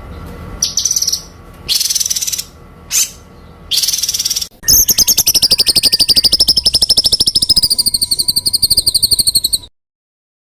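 Songbird singing: a few short, high phrases, then a long, very fast rattling trill lasting about five seconds that drifts slowly lower in pitch and cuts off suddenly near the end. This is the rapid-fire 'tembakan' style of song used to train contest songbirds.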